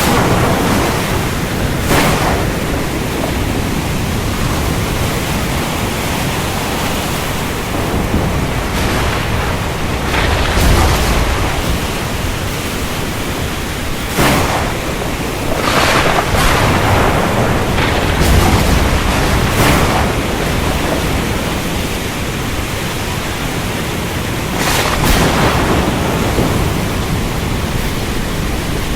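Thunderstorm: steady rain hiss with thunder rumbling low several times, swelling about a third of the way in and again past the middle, and a few short sharp cracks scattered through.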